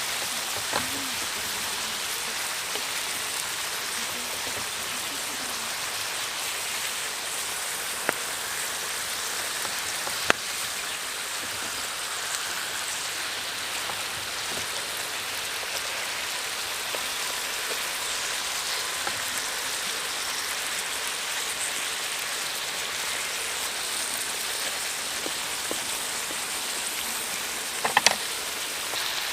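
Steady rain-like hiss throughout, with a few isolated sharp taps or knocks, the loudest cluster near the end.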